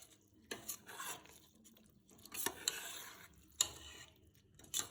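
A ladle stirring and scraping soaked rice and chicken masala gravy along the bottom of a pressure cooker pot, in several separate strokes, working the rice down so it doesn't stick to the bottom.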